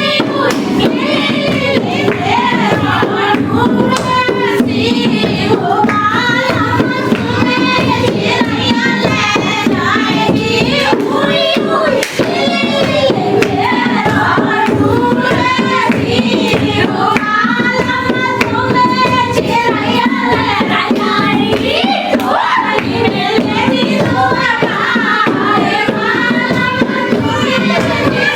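A woman singing a Hindi dehati folk song (lokgeet), with rhythmic percussion under the voice.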